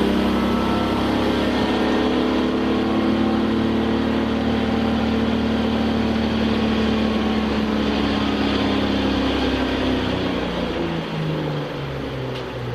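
Race car's engine heard from inside the cabin, its revs falling slowly as the car coasts, then dropping in a few quick steps to low, steady revs near the end, over steady road and wind noise.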